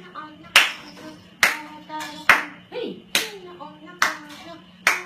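Steady clapping, about one clap a second, with a parrot's short calls and chatter between the claps.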